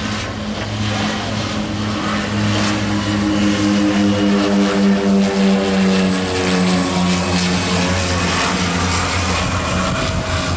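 Airplane on landing approach flying low past, its engines giving a steady drone whose pitch drops slightly about six seconds in as it goes by.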